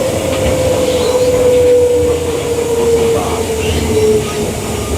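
Queensland Rail EMU electric train running, heard from inside a carriage: a low rumble with a single whine that slowly falls in pitch and fades out about four seconds in, as the train slows for a station.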